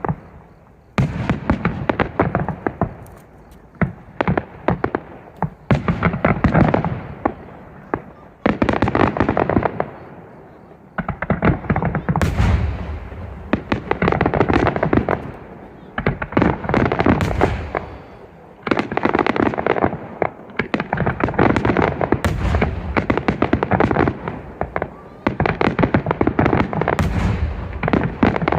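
Fireworks display: repeated barrages of many rapid crackling pops, a fresh volley every two to three seconds, with deeper booms among them.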